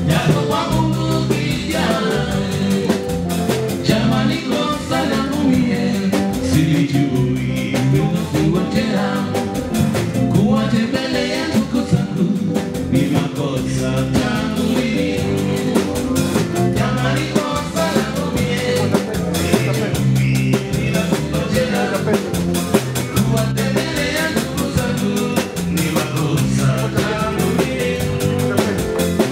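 A live band playing upbeat dance music with a drum kit keeping a steady beat and a singer's voice over it.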